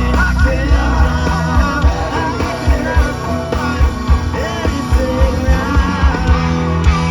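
Rock band playing live: a steady drum beat and bass under electric guitar, with a singing voice.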